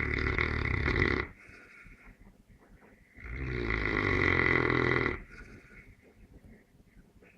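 Neapolitan Mastiff snoring: a long rattling snore that ends about a second in, then another of about two seconds midway, with quieter breathing between.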